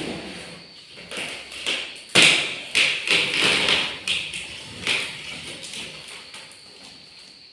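Irregular taps, knocks and rustling from handling an unboxed machine and its packaging, busiest and loudest a couple of seconds in, then thinning out.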